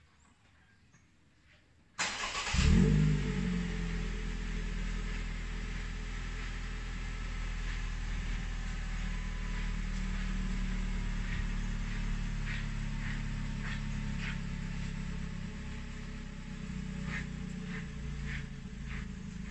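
Perodua Myvi's four-cylinder engine, fitted with an aftermarket extractor header on the factory exhaust piping, starts about two seconds in, flares briefly, then settles to a steady idle.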